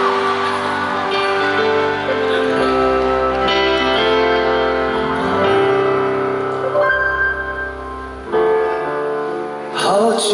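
Live concert music: a piano or keyboard intro of slow, held chords over a deep bass. Near the end a crowd begins cheering and whooping.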